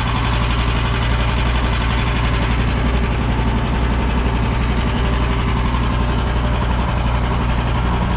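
EGN EG360 mini skid steer's engine idling steadily at an even pitch.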